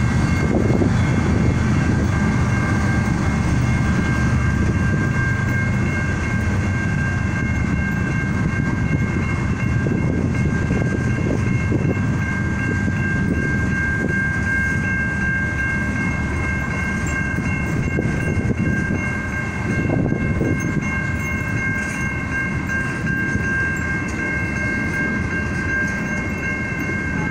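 Norfolk Southern freight train passing over a road crossing: a loud, steady rumble and clatter of wheels on rail as locomotives give way to a long string of container and tank cars. Thin steady high ringing tones sound over it throughout.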